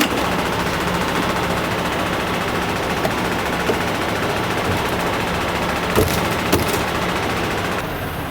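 Semi-truck diesel engine running with a dense, rapid clatter. Two sharp clunks come about six seconds in.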